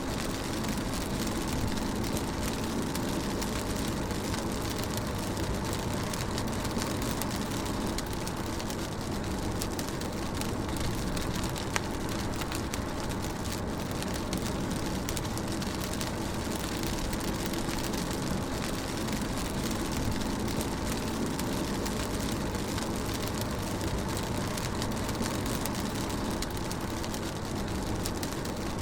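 Rain drumming on a moving car, heard from inside the cabin, over the steady low hum of the engine and tyres on the road, with an occasional louder drop tick.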